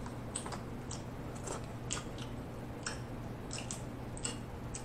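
Close-miked chewing of snow crab meat: a string of short, irregular mouth clicks and smacks, about two a second.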